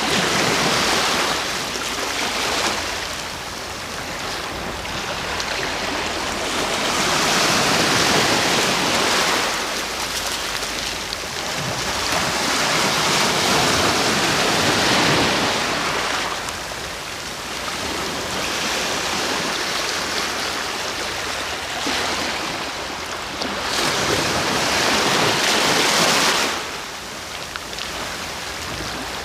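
Sea waves breaking: a continuous hiss of surf that swells into louder washes four times, each lasting a few seconds before it falls back.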